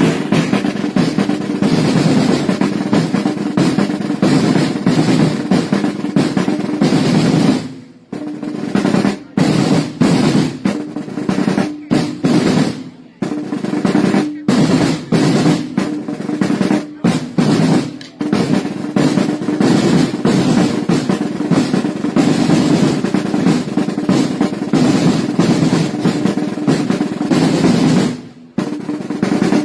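Festival drummers' side drums playing long continuous rolls, with brief pauses about eight, thirteen and twenty-eight seconds in.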